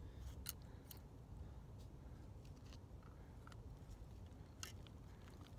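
A few faint, sparse clicks and taps of small parts being handled as the backflow preventer's relief-valve spring and cover are fitted, over a low background hum.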